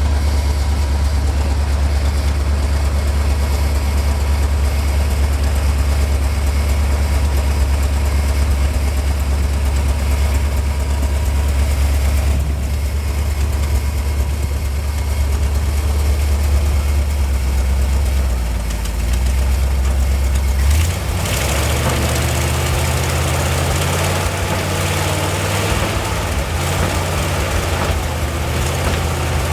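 1971 International 1890 plow truck's engine running steadily. About two-thirds of the way in its note shifts higher and a steady hiss joins it.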